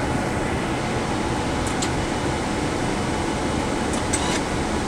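Steady rushing hum of a Boeing 787 Dreamliner flight deck, from its air-conditioning airflow and the engines at idle, with a few faint clicks about two and four seconds in.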